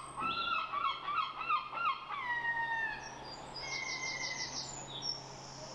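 Birds singing: a run of sliding, falling notes in the first three seconds, then a fast high trill about four seconds in and a few high chirps, over a faint steady low hum.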